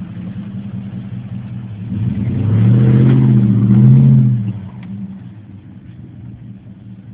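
Truck engine running, revving up hard for about two and a half seconds in the middle, then dropping back to a steady run.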